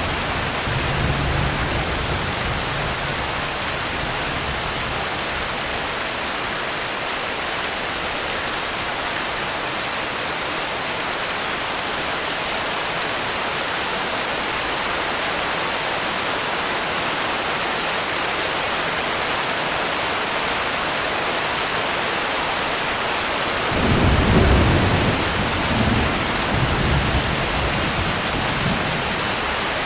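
Steady heavy rain with a constant hiss. A low rumble of thunder swells about three-quarters of the way through and rolls on for a few seconds.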